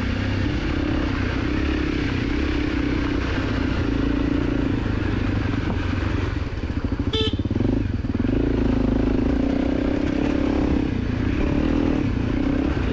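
Dirt bike engine running steadily while riding, with a brief dip about six and a half seconds in. A short high chirp sounds about seven seconds in.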